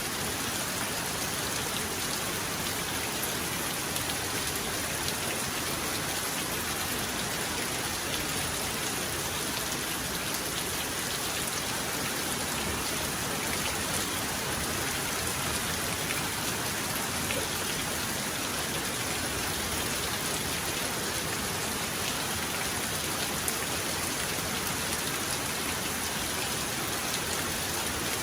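Steady heavy rain falling, an even hiss with scattered drop ticks and no thunder heard.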